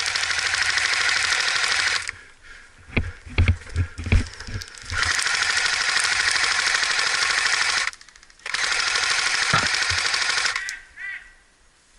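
Airsoft electric gun firing three long full-auto bursts of two to three seconds each, with the rapid buzzing rattle of the gearbox cycling. Between the first two bursts come a few heavy knocks.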